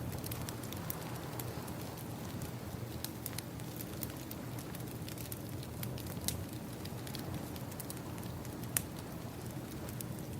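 Crackling wood fire: scattered sharp pops and snaps, a couple louder than the rest, over a steady low rush of ocean waves.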